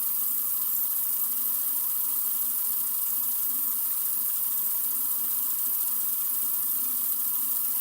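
Sink faucet running in a steady, unbroken stream: an even, bright hiss that does not change.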